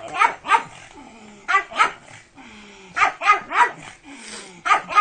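Pug barking excitedly in quick runs of two to four short barks, with brief pauses between the runs.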